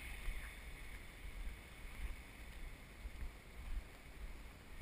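Wind buffeting the camera microphone in uneven low gusts, over a steady hiss.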